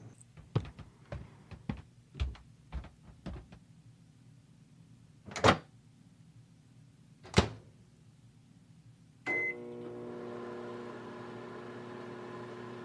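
Microwave oven being used: a run of light taps, two loud clunks as the door is opened and shut, a short high beep, then the oven starts and hums steadily with a droning tone.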